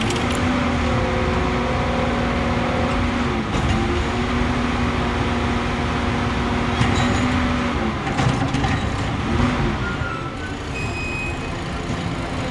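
Heavy truck engine running with a steady, pitched drone. The pitch dips briefly about three and a half seconds in, sags again near eight seconds, then wavers.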